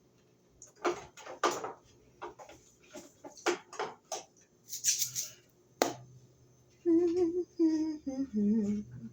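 Kitchen items clicking and knocking as they are moved about while someone rummages for a seasoning jar, with a short rustle about five seconds in. Over the last two seconds a person hums a few wavering notes.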